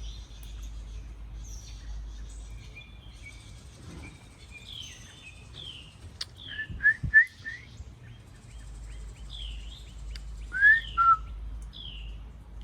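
Several wild songbirds calling and singing in the trees. The loudest is a run of four quick upslurred whistled chirps about six seconds in, then a rising slurred note followed by a short lower note near the end.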